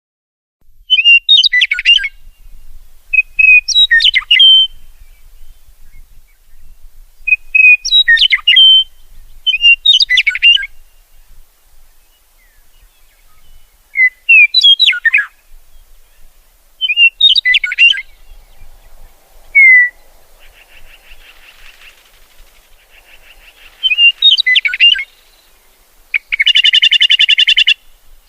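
A songbird singing short, intricate high phrases about every two to three seconds, starting about half a second in, with a harsh buzzy call lasting about a second and a half near the end.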